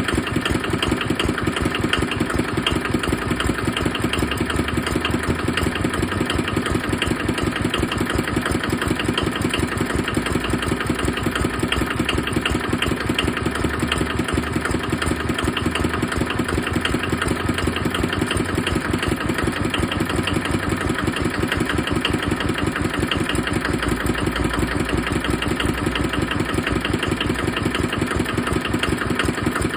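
Small Kubota KND-series engine running steadily on a test run, with an even, rapid pulse that stays constant throughout.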